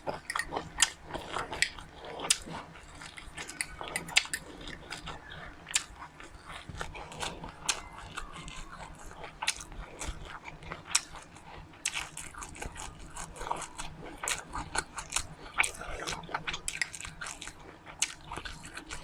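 A person chewing and crunching seeds close to the microphone: many small, sharp, irregular crunches, several a second.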